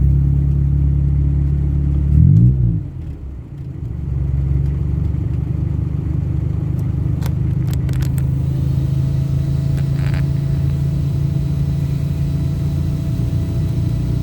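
A road vehicle's engine droning steadily while driving, with a brief rise and fall in engine pitch about two seconds in and a short dip in loudness just after. A few faint clicks come near the middle.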